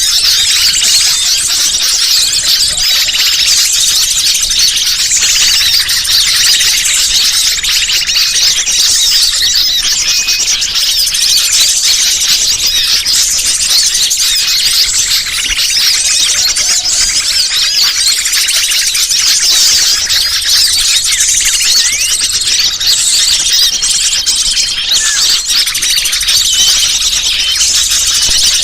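Bird-lure recording: a dense, unbroken chorus of many small birds chirping and squeaking, high-pitched and busy.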